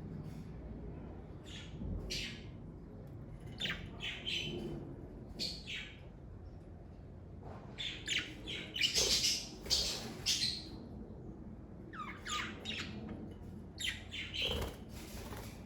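Pet budgerigars chirping and squawking in short, scattered calls. The calls come thickest about halfway through and again a little before the end.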